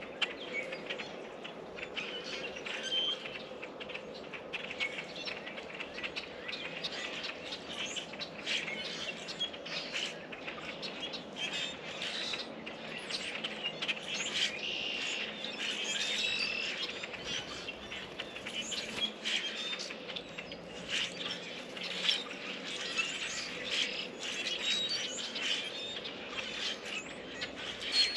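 Small songbirds at a feeder chirping and calling, a dense run of short chirps and ticks.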